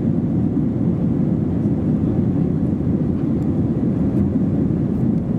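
Steady, loud, low cabin noise of an Airbus A320-232 under power, its IAE V2500 engines and the rushing airflow heard from inside the rear cabin.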